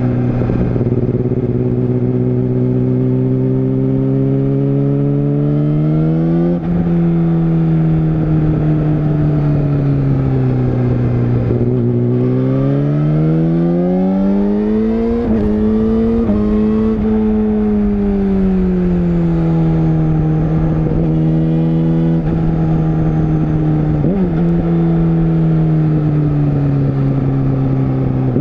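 Yamaha YZF-R6 (RJ27) 600 cc inline-four engine running at moderate revs on an unhurried ride. The note rises and falls with the throttle several times: it climbs and breaks off about six seconds in, sinks, climbs higher around the middle with a few quick steps, then settles to a steady pitch near the end.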